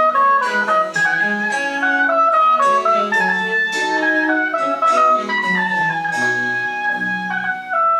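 French Baroque chamber music for winds and strings: a woodwind melody runs in quick short notes, interweaving with other parts over a moving bass line.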